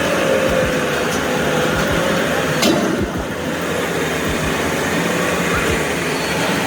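Heavy truck engine running steadily under a dense wash of outdoor noise, with a faint wavering whine and one sharp click a little before the middle.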